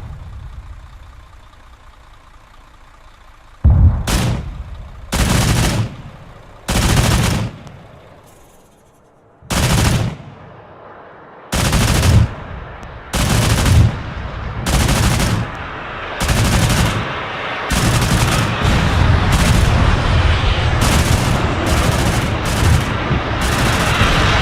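Pantsir-S1's 30 mm autocannons firing in short, rapid bursts. After a quiet start, about a dozen bursts come a second or so apart, closing up until the firing is nearly continuous in the second half.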